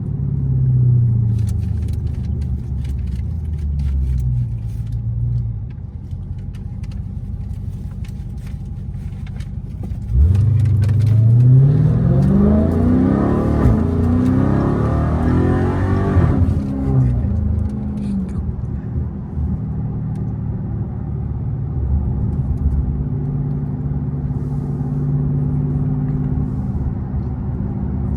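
Supercharged 6.2-litre Hemi V8 of a Dodge Charger Hellcat with its mid mufflers deleted, at a steady cruise. About ten seconds in it goes to hard throttle, loud, with the revs climbing steeply for several seconds. It then settles back to a steady drone.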